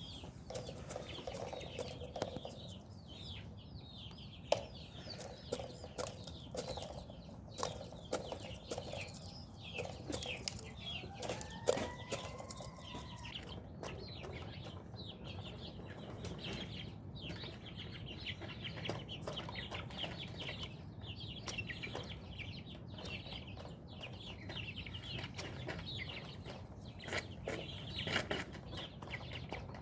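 Chickens clucking softly, with frequent short clicks and rustles. About twelve seconds in there is one drawn-out call that rises and falls.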